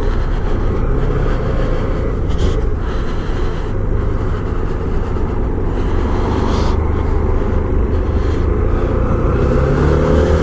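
Honda CB125F's single-cylinder four-stroke engine running under a heavy low rumble as the bike is ridden; near the end the engine note rises as it accelerates.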